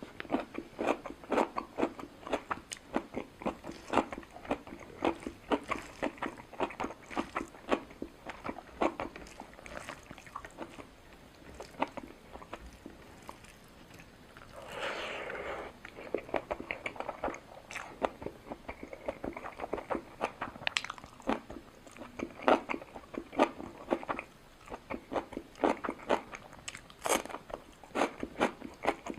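Close-up chewing and biting of a person eating a home lunch of rice, roti, sabzi and dal: many quick, wet mouth clicks. About halfway through there is a longer, noisier sound that lasts about a second.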